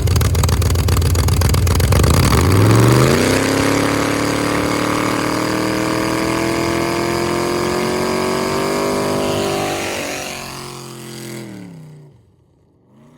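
Race truck's engine running loud, with revs climbing steeply about two and a half seconds in and held high and steady for several seconds. The engine then winds down, falling in pitch and fading near the end.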